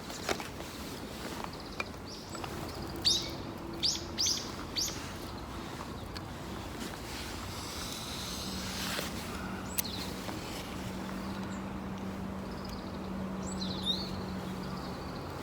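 Outdoor bird calls: short sharp chirps, a cluster of loud ones about three to five seconds in and a few more near the end, over a faint steady low hum and scattered light clicks.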